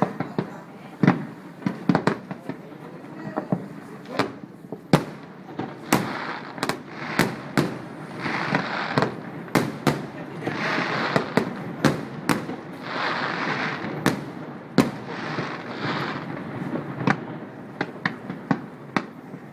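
Fireworks display: an irregular run of sharp bangs from exploding aerial shells, with several stretches of dense crackling hiss in the middle.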